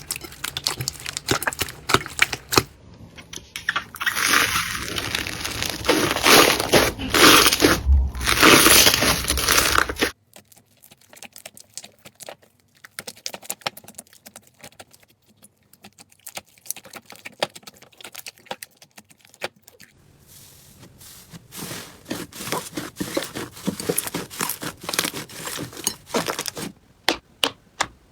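Slime being squished and worked, giving dense crackling and crinkling for about the first ten seconds, then, after a sudden drop, sparse quiet pops and clicks, with crackling again near the end.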